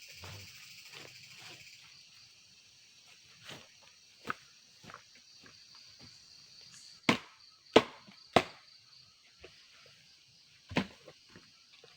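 Insects trilling steadily, with about six sharp knocks at irregular intervals; the loudest three come close together in the middle.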